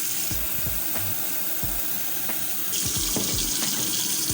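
Water running steadily from a tap, its hiss thinning about half a second in and growing brighter again near three seconds.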